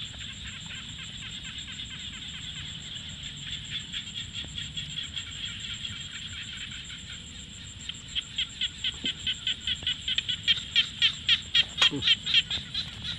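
A steady high-pitched chirring chorus of calling animals, with one loud pulsing call of about four pulses a second taking over from about eight seconds in. A couple of sharp knocks near the end.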